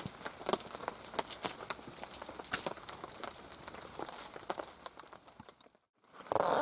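Steady rain with many irregular drops tapping on a surface over a faint hiss. The sound drops out abruptly near the end, then comes back louder as a rustling noise.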